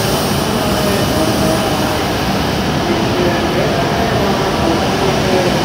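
E7-series Shinkansen train moving past along the platform at low speed: a steady rumble of wheels and running gear, with faint whining tones that waver in pitch.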